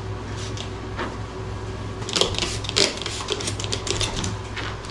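Flea spray pump bottle squirted in a quick series of short hissing bursts, several a second, starting about two seconds in, over a steady low hum.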